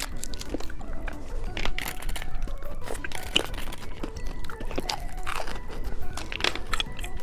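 Close-miked crunching and chewing of candy: an irregular run of crisp crunches and crackles.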